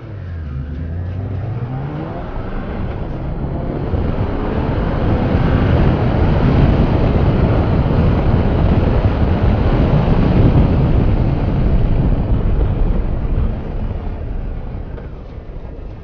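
Motorcycle engine revving up as it pulls away, its pitch rising over the first couple of seconds. Then a loud, steady rushing noise under the engine builds through the middle and eases off near the end.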